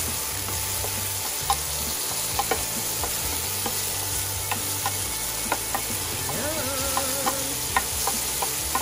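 Chopped onion and garlic sizzling in hot olive oil in a nonstick frying pan, a steady hiss. A wooden spoon stirring them knocks and scrapes against the pan about once a second.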